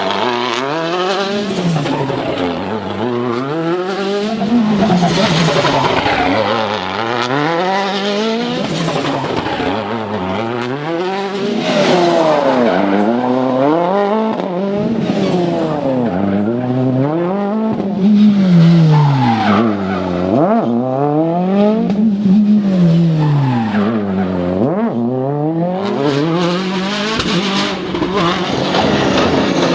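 Turbocharged four-cylinder World Rally Car engines working hard on a tarmac stage. The engine pitch rises and drops again and again, roughly every two seconds, as the cars accelerate, shift and brake.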